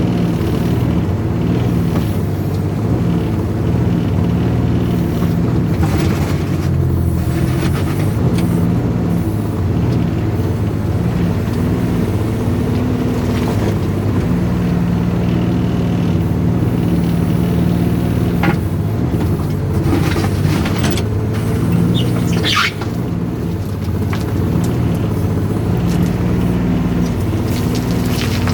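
Volvo mini excavator digging: its diesel engine runs steadily, its pitch shifting a little under hydraulic load, with occasional knocks and scrapes. A brief rising squeal comes about three quarters of the way through.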